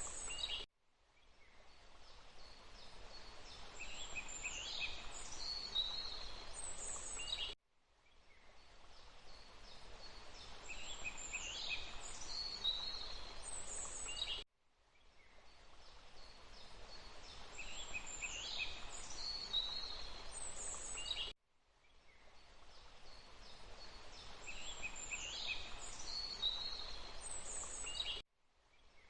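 Forest ambience of a steady hiss with birds chirping high, short calls. It is a loop about seven seconds long that cuts to silence and fades back in four times.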